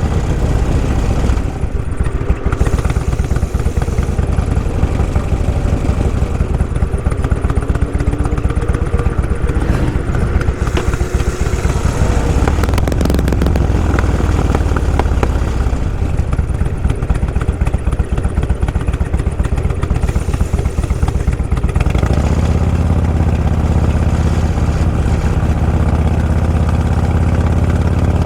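Motorcycle engine running on the move, with a rapid, uneven firing pulse and a pitch that shifts up and down. About two-thirds of the way through, it settles into a steady low drone.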